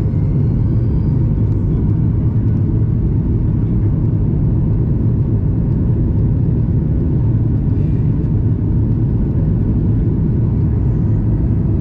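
Steady cabin rumble of a Boeing 737 MAX 8's engines and airflow, heard from a window seat inside the cabin, deep and unchanging.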